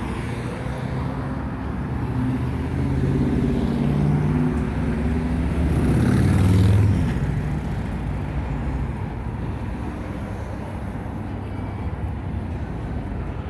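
Road traffic, with a motor vehicle passing close by; its engine note builds, is loudest about six or seven seconds in, then fades.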